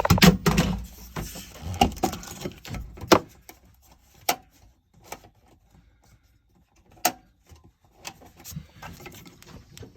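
Scattered clicks and knocks: rustling handling noise for the first few seconds, then a handful of single sharp clicks a second or more apart.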